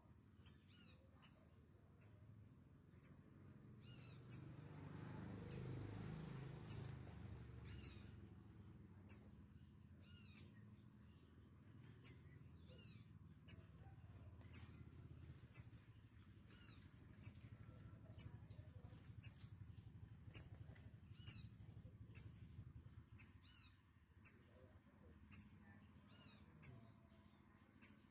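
A small bird giving short, high chirps at a steady pace of about one a second. A low rumble swells under the chirps partway through.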